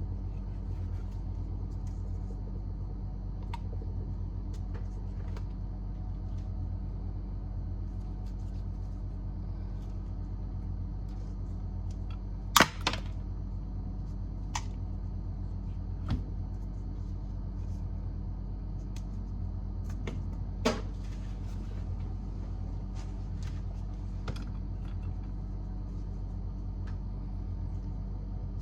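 Steady low electrical hum with scattered sharp clicks and taps, the loudest about twelve seconds in and another about twenty seconds in.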